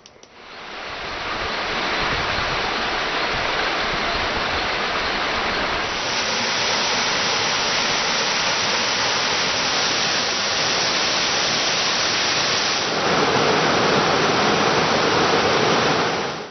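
Steady rush of water. It fades in over about two seconds, gets louder twice, and cuts off suddenly at the end.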